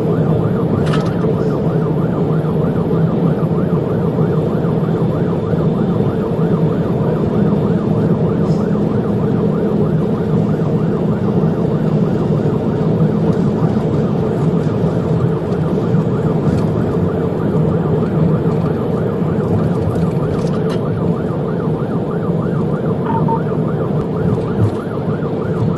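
Police car siren in a fast, rapidly repeating up-and-down yelp, over steady engine and road noise from the cruiser.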